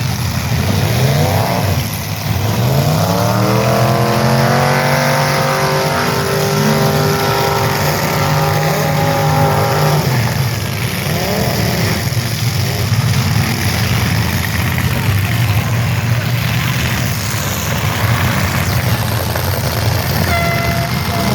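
Demolition derby cars' engines running hard, one revving up steeply about two seconds in and holding high until it drops off around ten seconds. A short steady tone sounds near the end.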